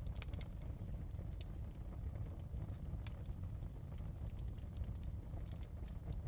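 Wood fire crackling: irregular sharp snaps and pops, a few close together at the start and then single ones every second or two, over a steady low rumble.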